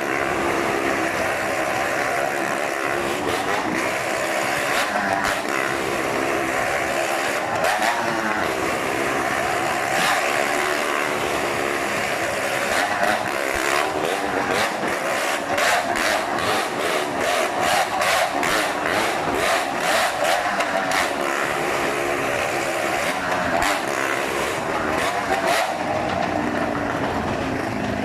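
Motorcycle engine riding the Wall of Death, its note rising and falling over and over as the bike circles. From about halfway through, a fast run of sharp knocks or clatter sounds over the engine.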